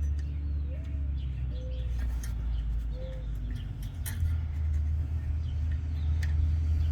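Low, steady engine rumble of a nearby large truck, growing louder about four seconds in, with a few soft bird calls and light clicks over it.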